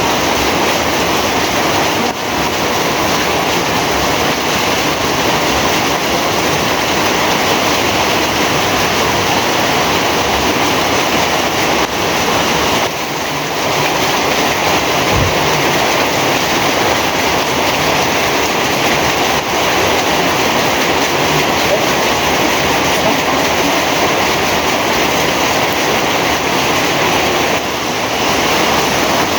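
Heavy rain pouring down steadily in a loud, even hiss, with a single short low thump about fifteen seconds in.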